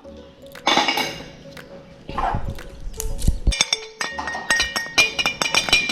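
Metal spoon clinking and scraping against a small dish of powder. There is a scrape about a second in, then a quick run of sharp clinks with some ringing near the end.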